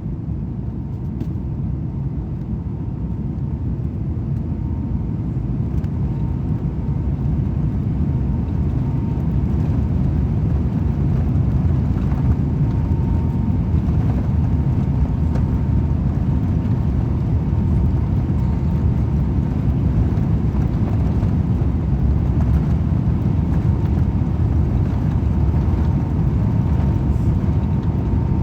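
Cabin noise of an Airbus A350-900 taking off and climbing: its Rolls-Royce Trent XWB engines at high thrust and the airflow make a steady deep rumble that grows slightly louder over the first several seconds, with a faint steady tone above it.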